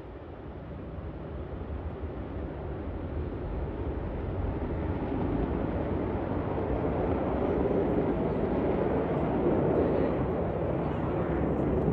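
Jet engine noise from Blue Angels F/A-18 Super Hornets, a steady rushing that grows louder over about eight seconds as the jets approach, then holds.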